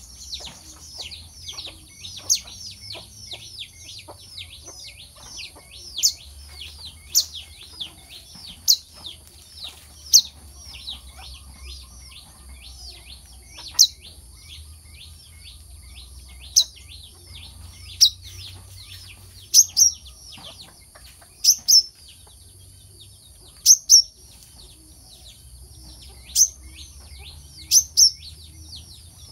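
Brown-throated sunbird calling: a rapid, continuous run of short, high, downward-sweeping chirps, with louder sharp notes standing out every second or two, over a steady high hiss.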